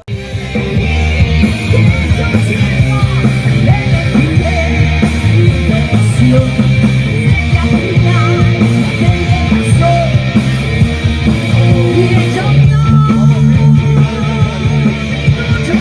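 Loud rock music with singing, guitar and drums, in a punk-rock style. It starts abruptly and runs steadily.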